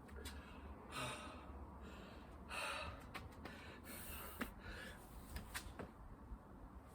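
A person breathing hard in heavy, gasping breaths about every second and a half, out of breath from exertion, with light taps and knocks in between.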